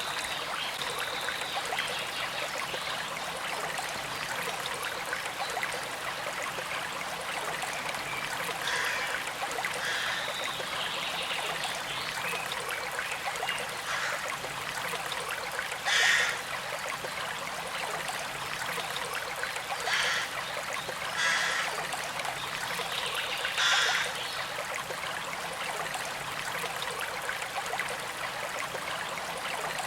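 A small stream flowing and trickling steadily. A few brief louder splashes or gurgles stand out, the loudest about halfway through and another about three-quarters of the way through.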